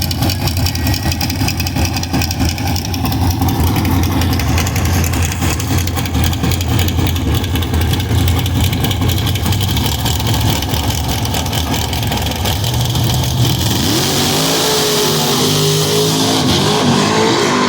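Drag car's engine running at a steady low idle, then about fourteen seconds in it revs hard and accelerates, its pitch climbing, dropping back and climbing again as it shifts gears.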